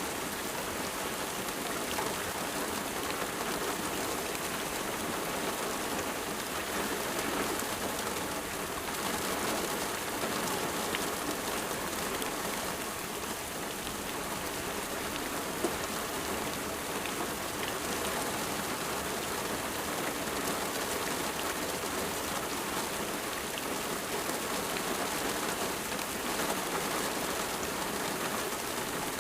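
Steady rain falling and pattering on a surface, an even hiss with scattered individual drops.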